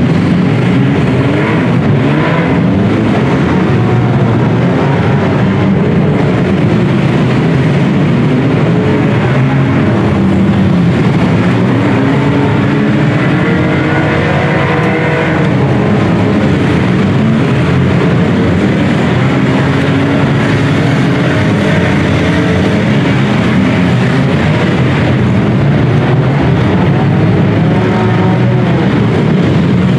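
Several demolition derby compact cars' engines revving up and down at once, many overlapping rising and falling engine notes, loud and continuous.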